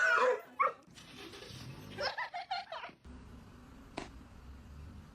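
A cat meows a few times about two seconds in, followed later by a single sharp click.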